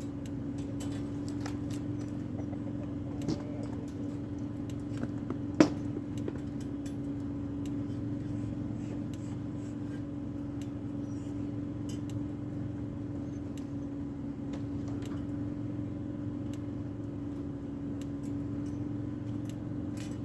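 A steady machine hum holding one even tone throughout, with scattered light clicks and one sharp knock about five and a half seconds in.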